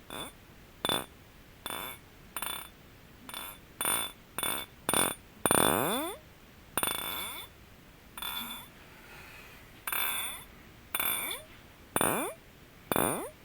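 Fingers tapping on glass objects in an unhurried, irregular rhythm. Each tap is sharp and rings briefly. A few strokes give a longer sound that glides in pitch.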